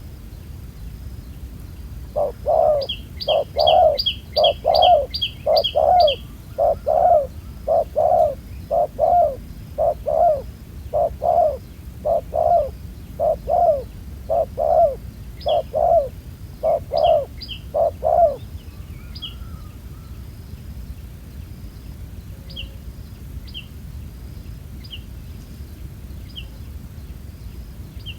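Spotted dove cooing, a long run of repeated low coos that stops about eighteen seconds in. A small bird chirps high above it, quickly for a few seconds early and then now and again.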